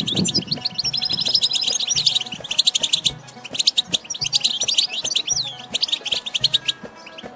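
European goldfinch twittering: a fast, continuous chatter of short high notes broken by quick trills and upswept calls.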